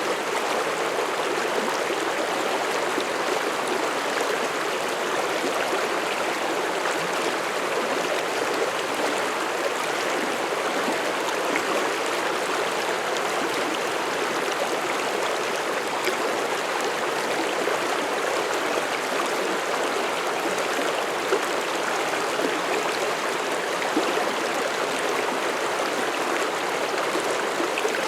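Mountain stream flowing through forest: a steady, continuous rush and babble of water running over rocks.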